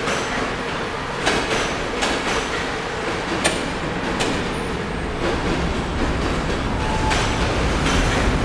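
Train rolling along the track: a steady rumble broken by irregular sharp clicks of wheels passing over rail joints, the rumble growing louder toward the end.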